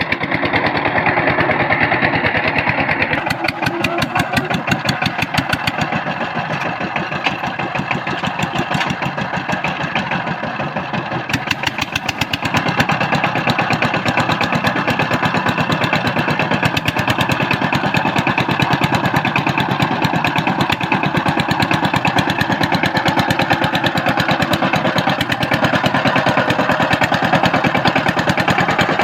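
Power tiller's engine running steadily, a rapid even beat of firing strokes, a little louder from about twelve seconds in.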